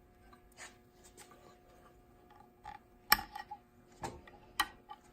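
Hand-threading a SEWPRO 0617D-7 walking-foot sewing machine: a few sharp clicks and light ticks as the upper thread is worked through the take-up lever, the loudest about three seconds in, over a faint steady hum.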